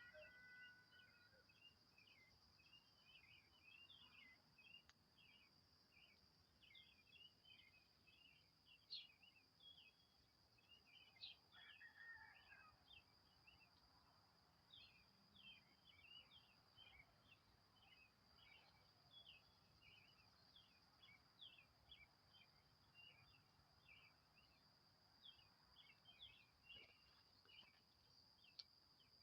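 Faint outdoor ambience of small birds giving many short, quick chirps, over a steady high-pitched insect drone.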